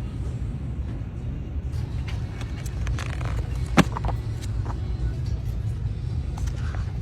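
Car in motion: a steady low rumble, with scattered light clicks and one sharp tap about halfway through.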